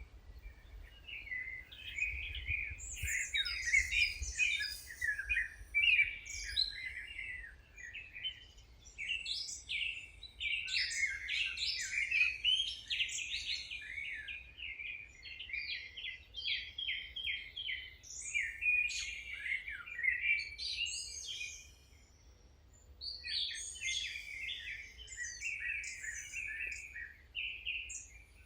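Several songbirds singing and chirping at once, a continuous chorus of quick trills and twitters with a brief lull about three-quarters of the way through, over a faint low rumble.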